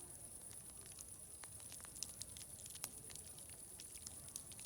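Wood fire crackling softly with scattered small pops, two of them louder about two and three seconds in, over a steady high hiss.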